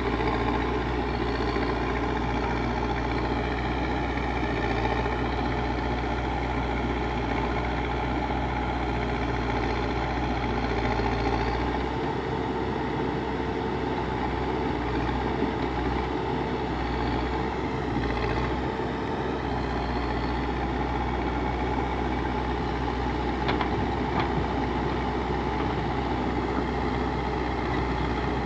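Backhoe loader's diesel engine running steadily, its low rumble wavering for several seconds in the middle, with a couple of brief clicks a little past two-thirds of the way through.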